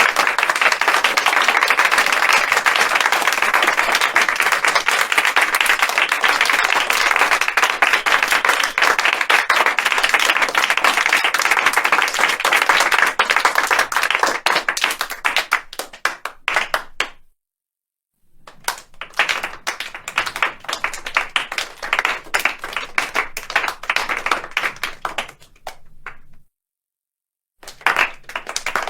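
Applause: many hands clapping densely, thinning to scattered claps and stopping abruptly about seventeen seconds in. After a second of silence, clapping with more distinct separate claps runs for about eight seconds and cuts off, then clapping starts again near the end.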